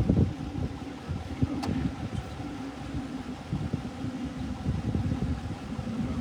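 A steady low mechanical hum under rough wind buffeting on the microphone, with a single faint click about one and a half seconds in.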